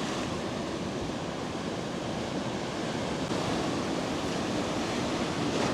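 Sea surf washing in on the beach at high tide: a steady rushing of breaking waves.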